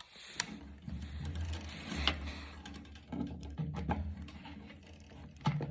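Scattered small clicks and knocks of hand-working T20 screws and a driver bit into a water heater's pilot assembly, over a low uneven rumble of handling noise.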